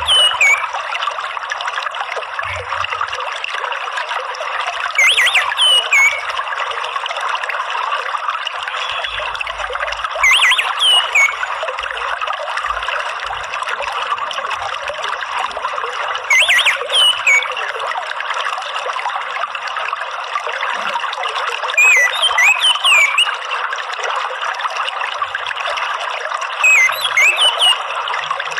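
Steady trickling running water, with a short burst of twittering orange-headed thrush calls every five to six seconds, about six times.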